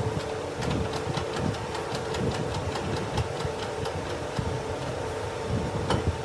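Machine tool running during the machining of a compressor crankshaft: a steady hum with a fast, regular ticking clatter.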